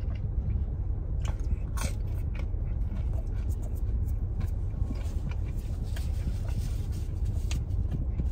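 Close-up chewing and biting of thin-crust pizza crust, with irregular crisp crunches and mouth sounds, over a steady low rumble.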